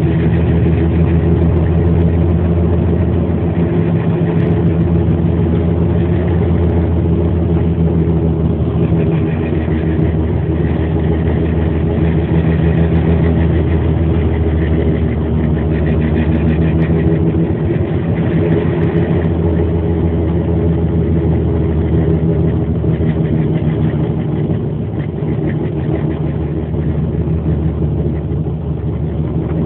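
Car running steadily through snow, heard from inside the cabin: a constant low engine hum with road and tyre noise, the tyres fitted with snow chains.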